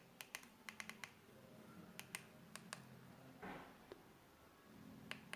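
Jio Phone's physical keypad buttons clicking as a search is typed: a dozen or so faint, irregularly spaced clicks.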